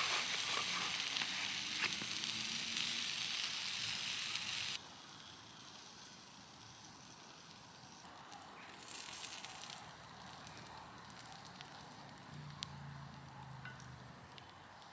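Sausages, asparagus and tomatoes sizzling in a frying pan, a steady hiss that cuts off suddenly about five seconds in. After that only faint scattered clicks and a quiet background remain.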